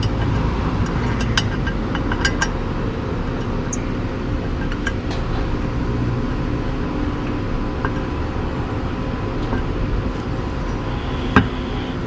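Scattered light metallic clinks of the 12 mm intake-grate bolts and socket being handled and threaded back in, with one sharp clink near the end, over a steady outdoor background hum.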